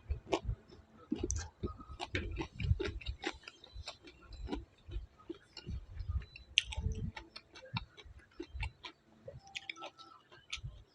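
A person eating close to the microphone: irregular wet mouth clicks and smacks along with chewing.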